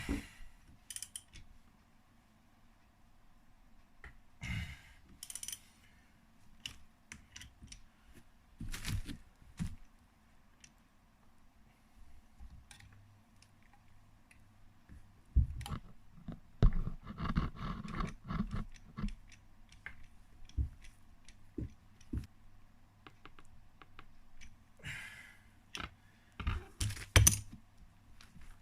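Scattered sharp clicks and metallic clinks of hand tools and small parts during work on a Kawasaki KX80's clutch, as the clutch centre nut is done up, with a denser run of knocks and clatter about halfway through.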